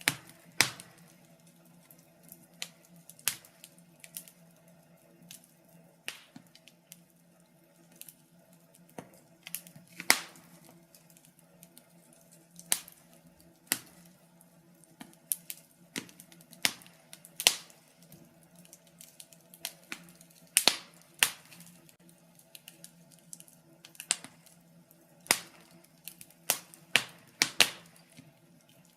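Wood fire in a fireplace crackling, with irregular sharp pops and snaps, sometimes several in quick succession, over a faint steady low bed.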